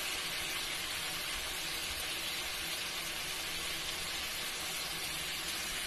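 Ground spice paste sizzling steadily in hot mustard oil in a steel kadhai, an even crackling hiss as the masala is fried down.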